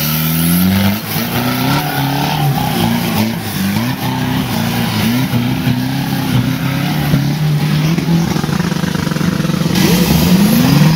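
Off-road 4x4 engine revving up and down again and again while working hard to climb a steep dirt slope, with a sharper rev-up near the end.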